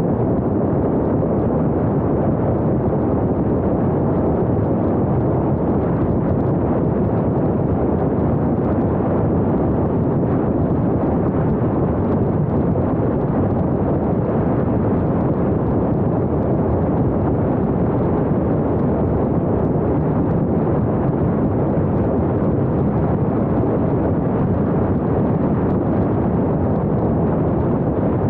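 Steady wind and road noise of a moving car, a low even rumble on the microphone.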